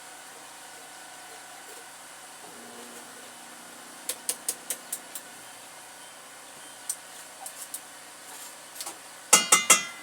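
Kitchen handling noise: a quick run of about six light taps, a few scattered clicks, then four loud knocks with a ringing tone near the end, like hard utensils or containers struck together.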